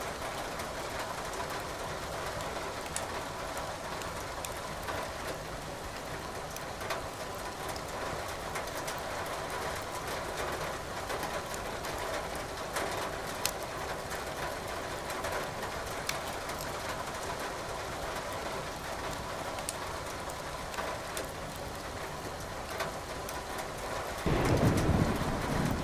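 Steady rain hiss with logs crackling in a fireplace as scattered sharp pops. Near the end a low roll of thunder comes in suddenly and becomes the loudest sound.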